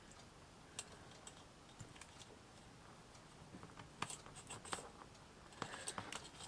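Faint scattered clicks and taps of craft pieces being handled and fitted together, a few at first and more often in the second half.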